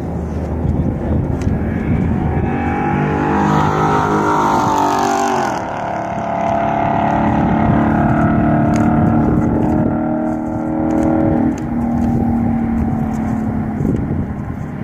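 A sports car's engine running hard on a race track, its pitch climbing for a few seconds, then dropping sharply about five and a half seconds in. It pulls steadily again and steps down once more near twelve seconds, like gear changes or the car passing.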